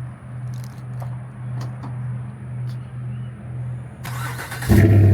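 A truck engine cold-started: a low hum pulses about twice a second, then near the end the starter cranks briefly and the engine catches and keeps running loudly.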